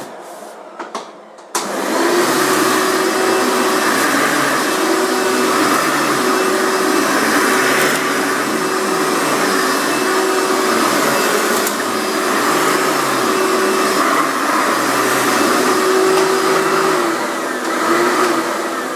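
Hoover vacuum cleaner switched on about a second and a half in, its motor running steadily with a steady whine while it vacuums up scattered styrofoam, then spinning down near the end.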